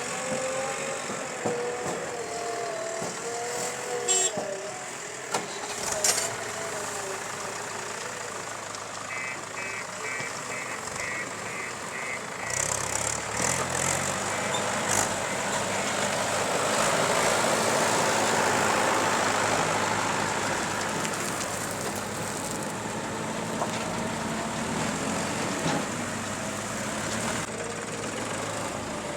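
Diesel engine of a JCB 3DX backhoe loader working while loading mud into tractors. There are sharp metal knocks about 4 and 6 seconds in, and a run of short repeated beeps around 10 seconds. The engine revs up and runs loudest for several seconds past the middle.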